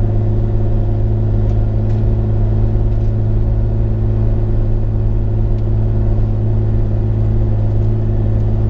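Bobcat E35i mini excavator's diesel engine running steadily at about 2200 RPM, just under full throttle, with a loud, unchanging low hum.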